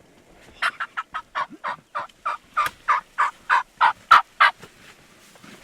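A turkey yelping: a run of about fourteen short, even yelps, three to four a second, getting louder toward the end of the run.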